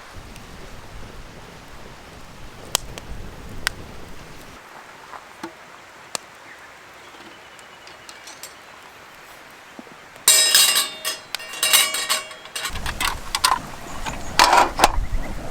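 A few light clicks and clinks, then about ten seconds in food goes into a hot iron frying pan and starts sizzling loudly with a dense crackle.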